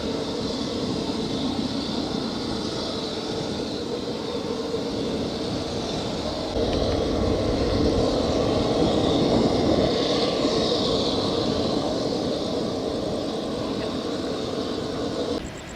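Steady engine drone, with a step up in level about six and a half seconds in.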